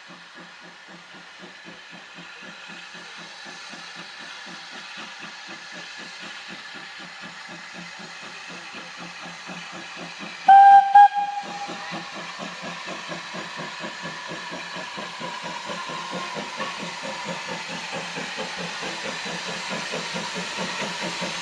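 Steam locomotive working, its exhaust beats coming in a steady rhythm and growing louder as it draws nearer, with a brief whistle blast about halfway through.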